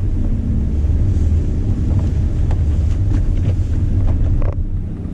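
Jeep Wrangler's engine and drivetrain running with a steady low rumble, heard inside the cabin while it moves in four-wheel-drive low.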